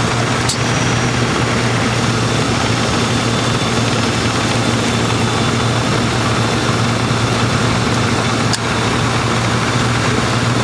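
1995 Lincoln Town Car's 4.6-litre V8 idling steadily with the air-conditioning compressor running while the system is charged with R-134a. Two sharp clicks, about half a second in and again about eight and a half seconds in.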